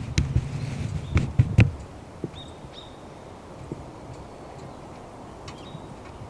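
A low rumble with a few sharp knocks in the first couple of seconds, then a quieter outdoor background in which a bird gives several short, high chirps.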